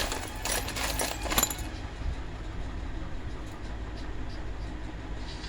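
Small metal parts clinking and rattling together for about a second and a half, then stopping, over a low steady rumble.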